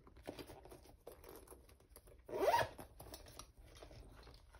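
A zipper pulled once, a short rising zip about halfway through, amid quiet rustling and handling of craft supplies.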